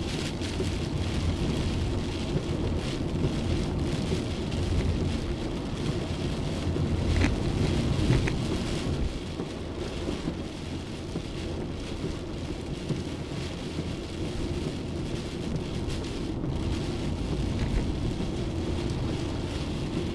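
Heavy thunderstorm rain pouring down steadily, with low thunder rumbling underneath that swells louder about seven to eight seconds in.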